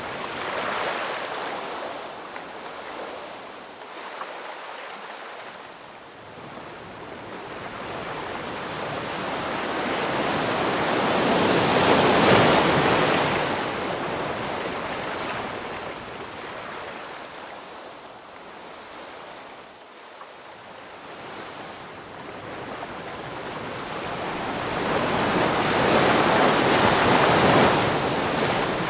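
Ocean waves surging and washing in, building to a loud crash about twelve seconds in and again near the end, with quieter lulls between.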